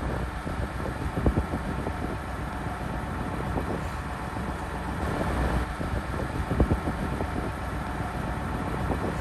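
Massey Ferguson 4840's V8 diesel engine running steadily while the tractor works a cultivator across a field, with irregular knocks over the engine's low rumble.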